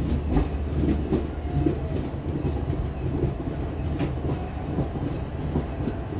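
Express train's coaches rolling slowly with a steady low rumble, the wheels clacking irregularly over rail joints.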